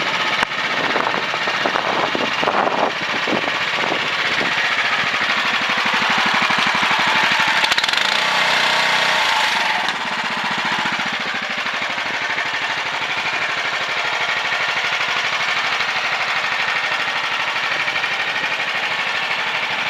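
Small engine of a CFG MH12RX mini excavator running with a fast, even chatter, louder and higher from about six to ten seconds in, then settling to a steadier, lower running speed.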